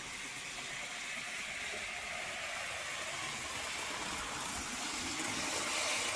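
HO-scale model train running on the layout track: a steady whirring hiss of the small locomotive motor and wheels on the rails, growing slightly louder.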